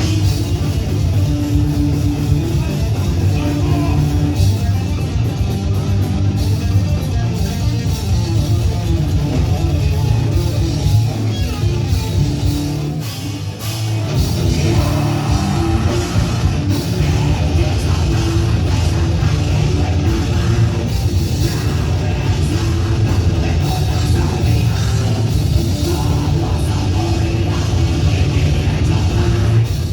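Heavy metal band playing: distorted electric guitars, bass and drums. The low end drops out briefly about thirteen seconds in before the full band comes back.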